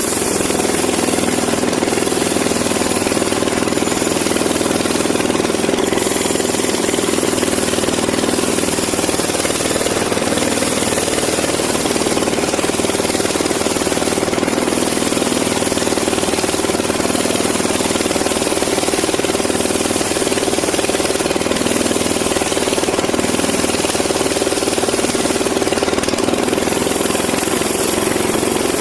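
Sawmill band saw running steadily, cutting through teak timber.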